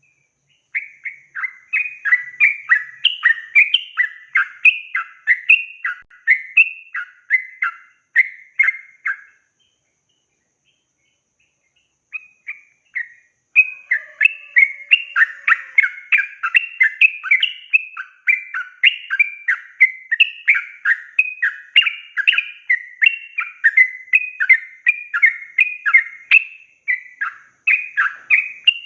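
Yellow-vented bulbul (trucukan) singing long, rapid runs of short chattering notes, stopping for about three seconds near the middle and then starting again, faster and denser.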